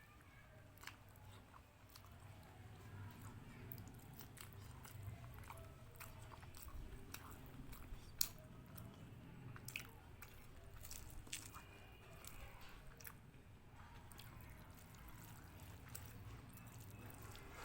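A person chewing and biting food close to the microphone: soft, wet chewing with scattered short crunches and mouth clicks, the sharpest about halfway through, over a faint low hum.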